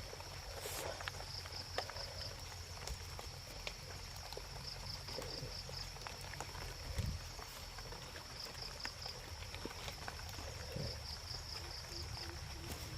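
Insects trilling steadily at a high pitch, with runs of rapid, even chirps coming back every few seconds, over faint scattered ticks and rustles.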